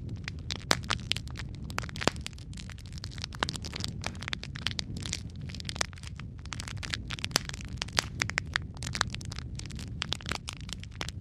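Wood fire crackling in a fireplace: a steady low rumble of burning with dense, irregular sharp pops and snaps, a few louder than the rest.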